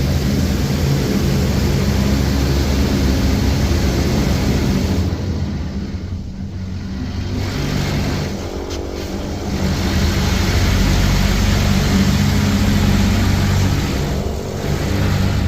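High-pressure water jets from a Mr Magic Automagic car wash's turbo nozzles blasting the car, heard from inside the cabin: a loud, steady spray over a low pump hum. It drops away briefly about five seconds in, again around eight seconds, and near the end as the jets move across the car.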